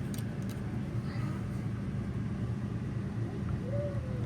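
RV rooftop air conditioner running continuously with a steady low hum, a few light clicks near the start.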